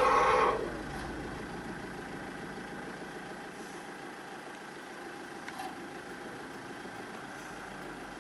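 A car engine idling steadily. It is louder for the first half second, then drops to an even idle.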